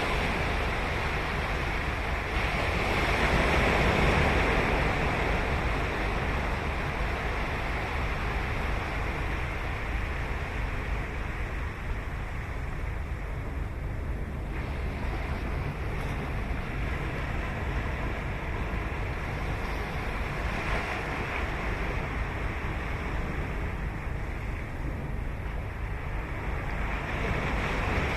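Ocean surf breaking and washing up a sandy beach: a continuous wash that swells as waves break, about three seconds in, again around twenty seconds and near the end, over a steady low rumble.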